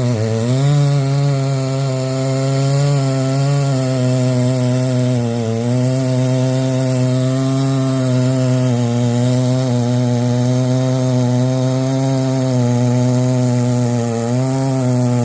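Husqvarna 394XP chainsaw engine spinning steadily, with its pitch sagging briefly about five seconds in and again near the end.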